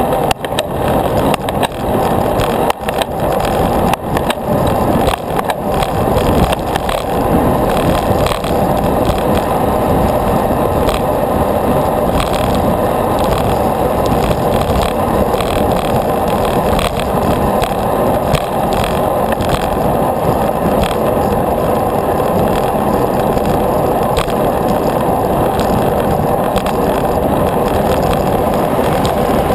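Steady rolling noise of a bicycle being ridden over pavement, with knocks and rattles from bumps in the road during the first several seconds.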